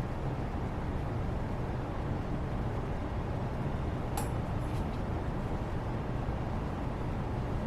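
Steady low background rumble of room ambience, with a single faint click about four seconds in.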